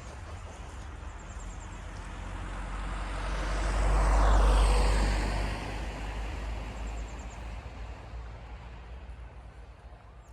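Historic steam-hauled train passing by: a rumble that swells to its loudest about four seconds in, drops in pitch as it passes, then fades away.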